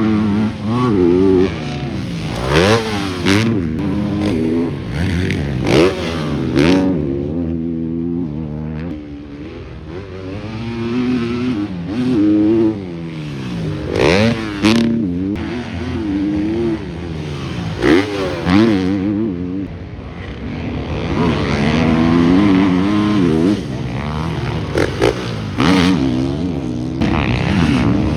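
Motocross bikes running on track, engines revving up and down again and again as riders work the throttle through the sections, several bikes overlapping with sharp spikes here and there.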